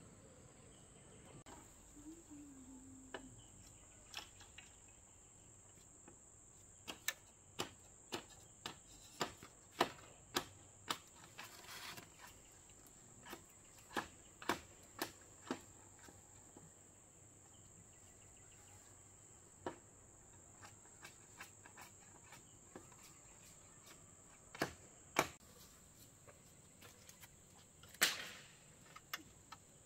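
Crickets chirring steadily in a high, unbroken drone, with irregular sharp knocks and taps over it: a quick run of them through the first half and a louder knock near the end.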